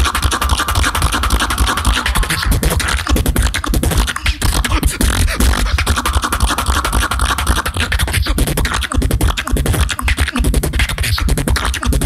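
Human beatboxing: a fast, dense rhythm of mouth-made kicks, snares and clicks over heavy bass, with a held higher note that comes in twice.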